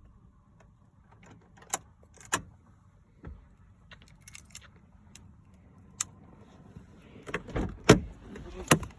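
Car keys jangling, with scattered sharp clicks. A run of louder knocks and rattles comes near the end.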